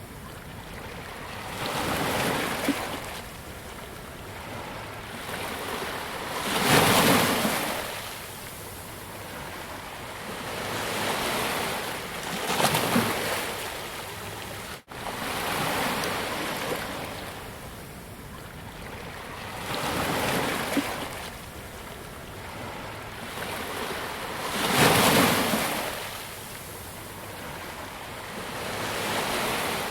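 Ocean waves breaking on a beach, each wash of surf swelling and fading about every five to six seconds, with a short dropout near the middle.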